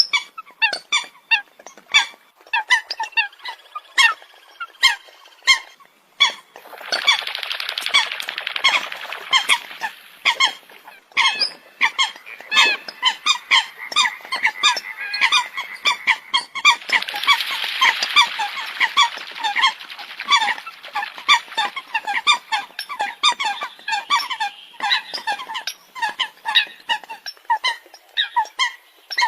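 A flock of Eurasian coots calling: many short, sharp calls in quick succession, thickening twice into a dense chorus of many birds calling at once.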